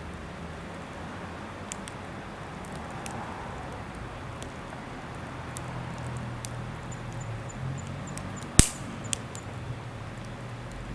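Wood campfire crackling, with scattered small pops and one loud sharp pop about two-thirds of the way through.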